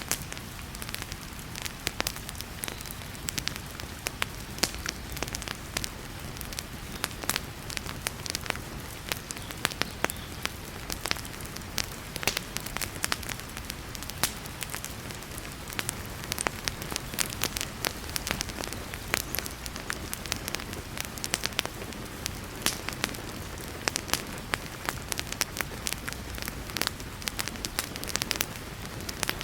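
Wood fire crackling in a fireplace, with frequent sharp irregular pops and snaps over a steady hiss of heavy rain.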